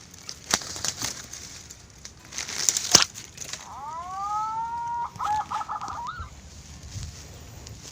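A rooster crowing once about four seconds in, a call that rises, holds and ends in a warble, with another crow starting at the very end. Before it, rustling and a few sharp cracks, the loudest near three seconds in.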